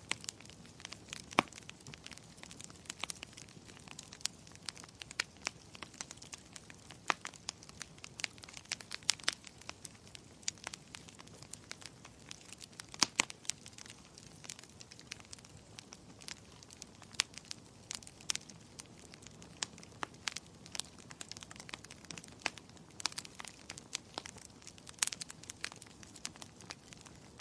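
Wood fire crackling in a fireplace: a steady low hiss of burning with frequent irregular sharp crackles and occasional louder pops.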